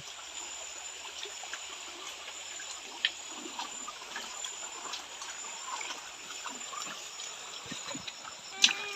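Water of a small stream trickling, with a steady high-pitched whine above it. There is a single sharp click about three seconds in.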